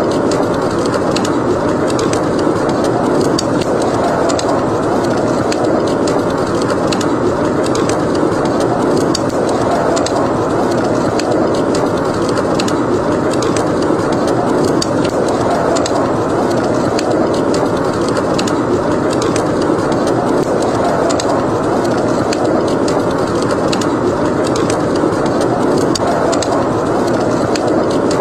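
Wind of a howling snowstorm, a steady rush that swells and eases slowly, with a wood fire crackling over it in many small, sharp pops and snaps.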